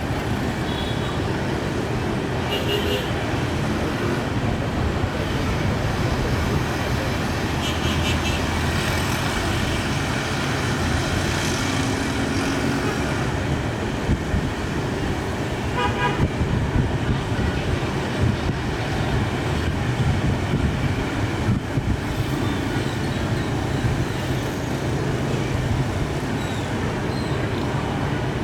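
Steady road traffic noise with a few short horn toots.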